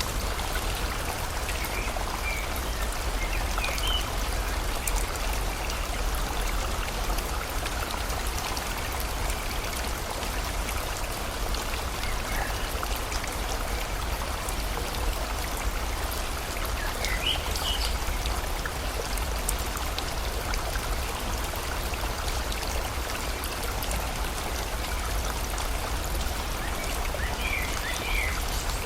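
Steady rush of a flowing river mixed with falling rain, with short bird chirps now and then: several in the first few seconds, a couple in the middle, and a few near the end.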